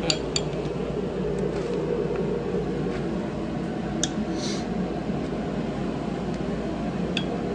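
A steady mechanical hum, like a running fan, with a few sharp clicks and knocks from work on a seized engine, and a short hiss about halfway through.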